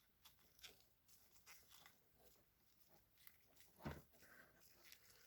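Faint rustling and crinkling of tape being wrapped around a car's engine wiring harness, with one soft knock about four seconds in.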